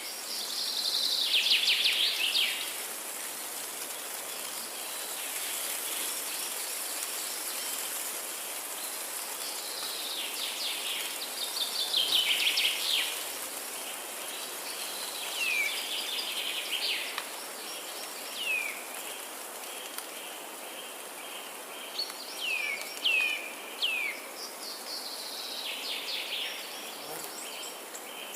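Forest birdsong: a songbird sings several descending trilled phrases, loudest about a second in and again around twelve seconds, with short downward-slurred notes between them. Underneath runs a steady high hiss.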